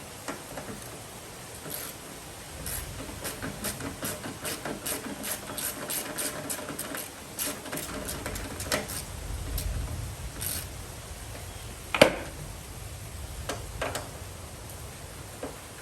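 Rapid mechanical clicking from hand tools being worked, about four clicks a second, then a low rumble and a single loud knock about twelve seconds in, with a few more clicks after it.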